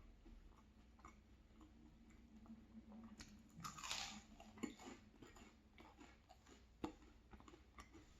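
A person chewing crunchy toast close to the microphone: faint mouth clicks and small crunches, with a louder crunchy burst of chewing about four seconds in.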